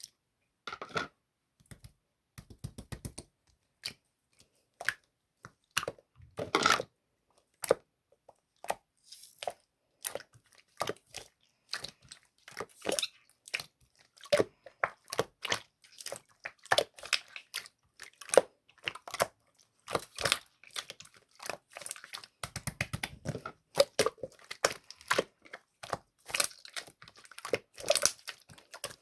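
Hands pressing, poking and stretching slime, making irregular sharp pops, clicks and crackles that come sparsely at first and then thick and fast from about nine seconds in.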